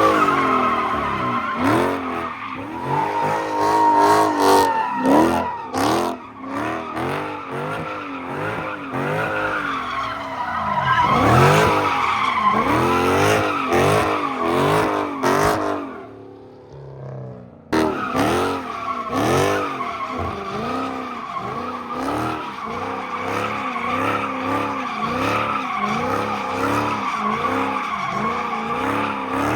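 Muscle car doing a burnout: the engine is revved up and down over and over, about twice a second, while the rear tyres squeal and skid. Near two-thirds of the way through it falls quiet for a second or so, then starts again suddenly.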